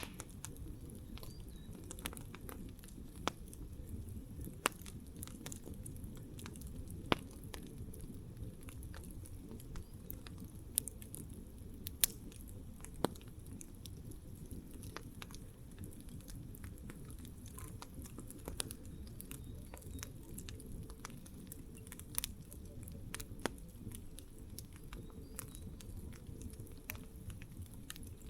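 Wood campfire burning, a steady low rumble of the flames with sharp irregular crackles and pops from the burning wood.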